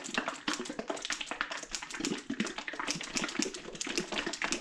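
Bottle of 3D-printer resin being shaken hard by hand: liquid sloshing against the plastic bottle in a rapid, continuous stream of short strokes, mixing the resin before it is poured.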